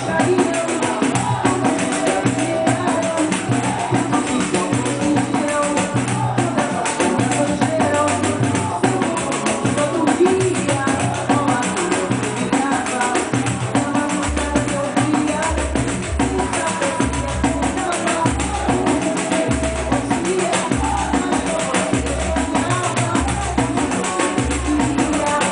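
Pandeiro played in a samba rhythm over a samba song with a singer and a bass line; deeper bass notes come in about halfway through.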